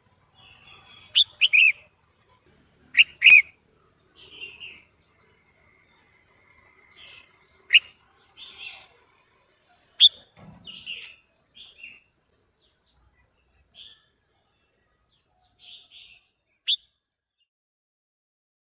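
Female red-whiskered bulbul calling: short, sharp, downward-sweeping notes, a few loud ones spaced a few seconds apart with softer chattering notes between. This is a female's call of the kind used to rouse male bulbuls.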